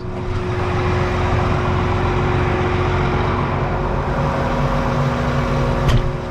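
Tractor engine running at a steady speed, a constant drone with a low rumble. There is a single sharp click near the end.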